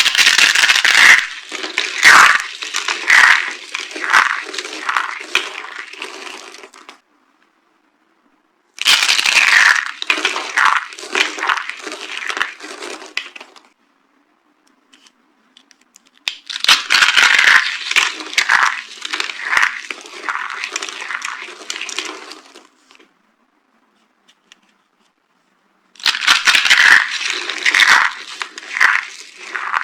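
Dry bar soap being crushed, crunching and crackling in four bouts. Each bout starts with a loud crunch and trails off into smaller crackles, with short pauses between bouts.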